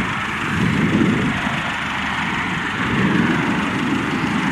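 Four turboprop engines of a C-130J transport aircraft running on the ground, a steady dense rushing noise without distinct pitch.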